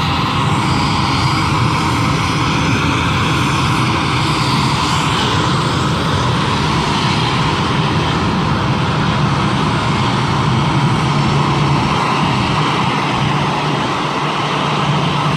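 Airliner's engines running, a loud, steady drone that holds even throughout.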